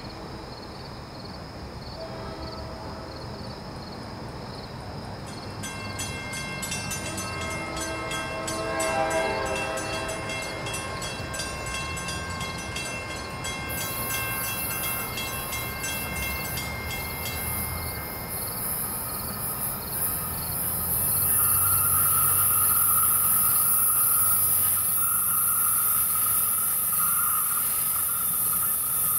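Distant NJ Transit commuter train approaching: its horn sounds from afar for several seconds, then a steady high hiss and rumble from the train grow louder as it draws near.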